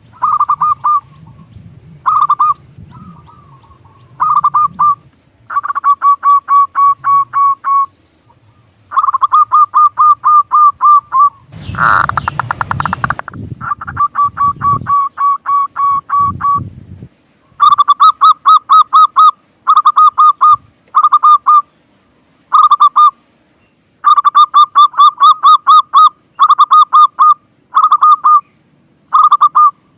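Zebra dove (perkutut) singing: a series of rapid, evenly spaced cooing notes in short bursts, repeated over and over with brief pauses between bursts. About twelve seconds in, a brief rush of noise sounds under the song.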